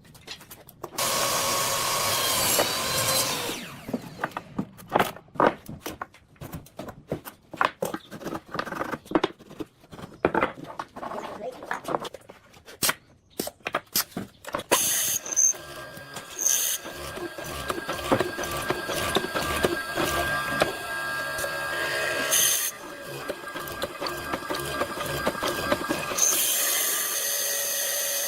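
Woodworking power tools and hand work: a power tool runs briefly, then many sharp knocks and taps at irregular spacing, then power tools running steadily, louder near the end.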